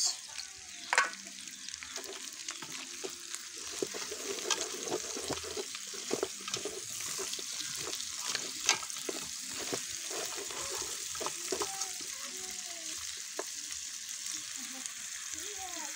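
Beef and onions sizzling in oil in a large metal pot as they brown, while a wooden spoon stirs them and scrapes and knocks against the pot again and again.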